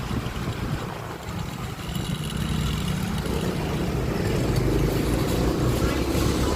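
Honda Click 125i scooter engine running under way, growing louder from about two seconds in.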